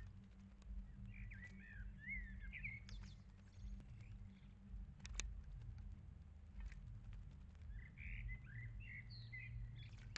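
A song thrush bathing in a shallow bird bath, with short sharp splashes of water, while a bird sings two runs of varied high notes, one near the start and one near the end. A steady low hum runs underneath.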